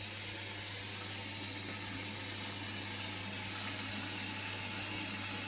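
Hotpoint washing machine running: a steady low hum with an even hiss over it, with no knocks or changes.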